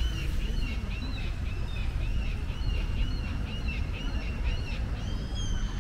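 A bird calling over and over, short high arched notes at an even pace of about three a second, over a low outdoor rumble.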